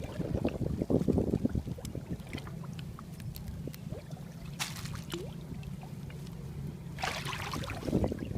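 Water sloshing and splashing in shallow floodwater with scattered small splashes, one brief sharp splash a little past the middle and a louder rush of splashing near the end, over a steady low hum.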